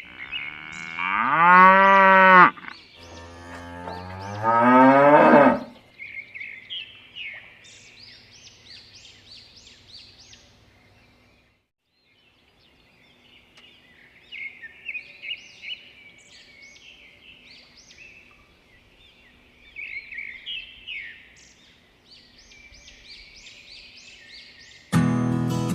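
A cow mooing twice in long calls that rise then fall, followed by many short, high bird-like chirps. Music comes in loudly near the end.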